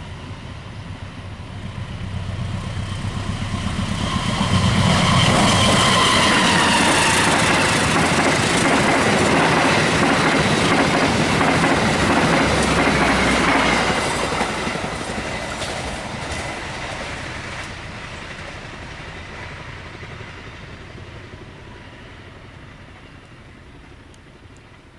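A train passing at speed: it builds up over a few seconds, goes by loudly with wheels clattering over the rail joints, then fades steadily away.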